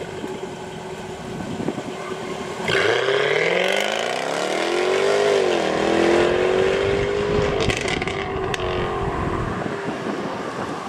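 Jaguar F-Type R's 5.0-litre supercharged V8 running at a standstill, then launching hard under launch control a little under three seconds in: the engine note climbs steeply, dips at an upshift about five seconds in, then pulls on and fades as the car drives away.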